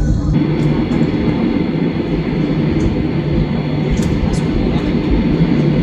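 Steady low rumble and roar inside an airliner's cabin after landing: engine and rolling noise while the aircraft is still moving.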